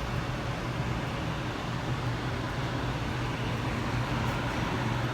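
Gas furnace running steadily, burners lit and blower going, with a constant low hum: it is firing and making heat again after a new gas valve and igniter.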